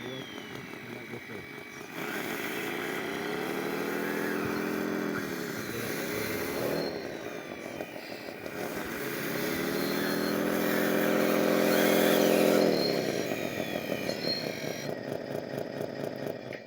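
Whine of RC construction models' electric motors and gearing, spinning up, holding and winding down twice, with higher thin whines sliding down in pitch between.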